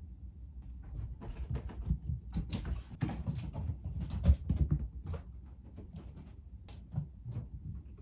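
Kittens scuffling and romping on a floor: irregular rustling, scrabbling and soft thumps, busiest in the middle, with one louder thump about four seconds in.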